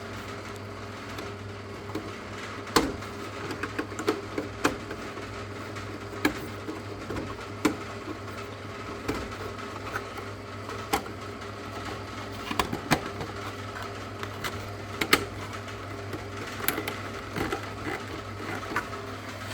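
Scattered sharp plastic clicks and taps as wiring connectors are pushed onto a boiler's replacement circuit board, over a steady low hum.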